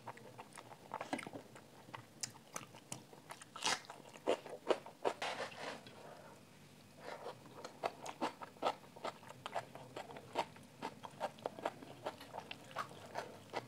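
Close-miked chewing of rice and chicken curry eaten by hand: a run of wet clicking and smacking mouth sounds, with a short pause about halfway through.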